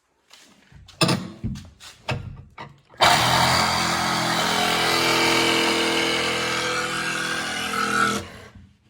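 A few knocks, then a cordless power tool starts abruptly about three seconds in and runs at a steady pitch for about five seconds, cutting through a stuck screw, then stops.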